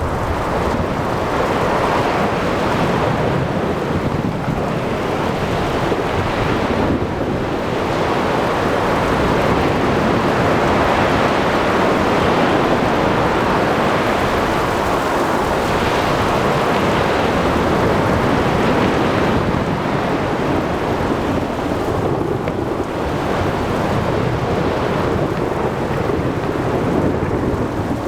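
Storm at sea: waves breaking, with rain and wind and a low rumble of thunder, making one continuous dense wash of noise that swells and eases slowly.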